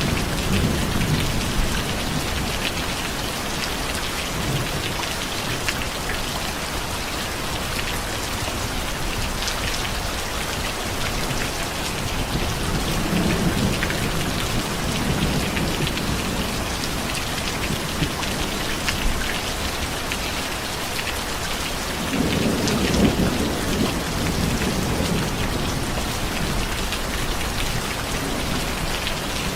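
Steady rain with low rolls of thunder that swell and fade, the loudest about three-quarters of the way through.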